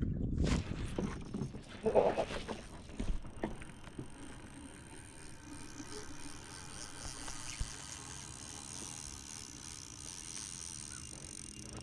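Knocks and clatters of gear being handled on a kayak for the first few seconds, the loudest about two seconds in, then a faint steady outdoor hiss.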